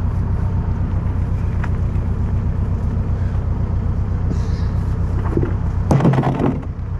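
Motor vehicle engine running steadily with a low drone, with a short louder burst about six seconds in.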